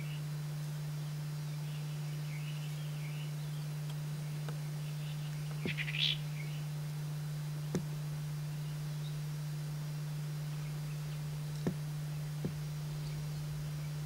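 Female Cape Batis giving a short, harsh chattering call about six seconds in, with a few fainter chirps earlier, over a steady low hum. A few sharp clicks come near the middle and toward the end.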